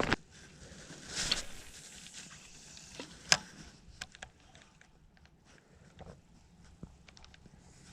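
Quiet crackling and scattered small clicks, with a soft rustling swell about a second in and one sharper click a little past three seconds.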